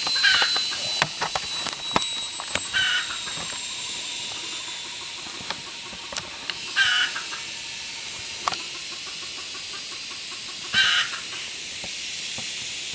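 Wild chicken (junglefowl) giving short clucking calls, four of them several seconds apart. A steady high hiss runs underneath, with a few faint clicks.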